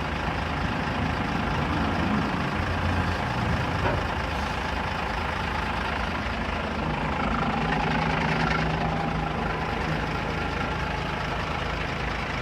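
Mercedes-Benz 1317 tipper truck's turbocharged straight-six diesel engine idling steadily.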